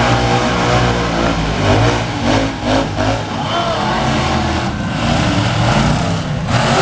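Monster truck engines running loud, revving up and down, over a general arena din.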